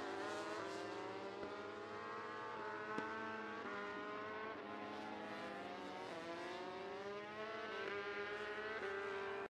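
MotoGP racing motorcycle engines at high revs, the pitch climbing and dropping back again and again as they shift up through the gears. The sound cuts off suddenly near the end.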